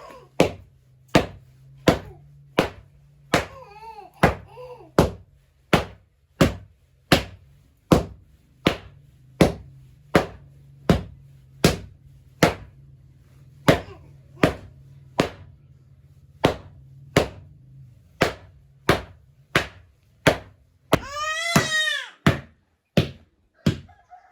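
Steady, even series of sharp knocks, about three every two seconds, over a low steady hum. A child's high-pitched voice cries out for about a second near the end.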